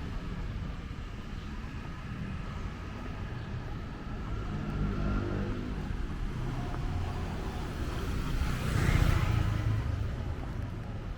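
City street traffic: motor vehicle engines running, with one vehicle passing close about nine seconds in, the loudest moment.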